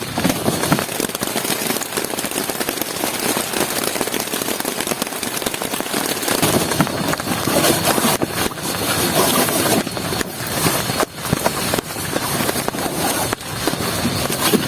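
Heavy rain pattering hard on a close surface, a dense crackle of countless drop impacts over a steady hiss.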